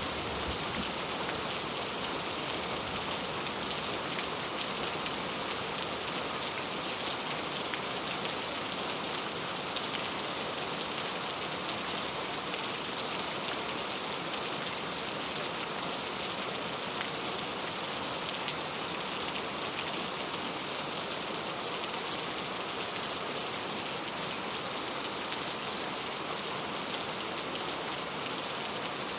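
Gentle rain falling steadily: an even hiss of many drops on a surface, with the odd single drop ticking out of it.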